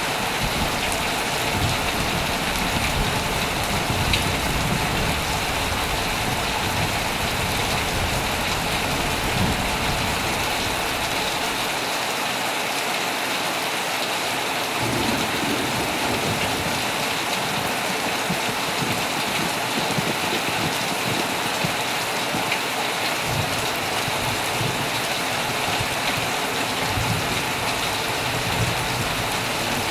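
Heavy rain falling steadily on an old tent, with a low rumble underneath that comes and goes and drops away for a few seconds midway.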